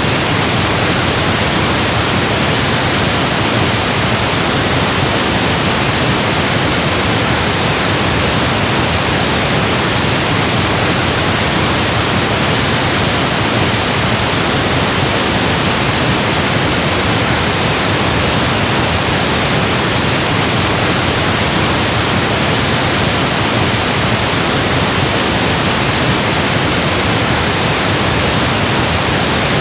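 Steady, even pink noise: a continuous hiss with no tones, rhythm or changes, electronically generated.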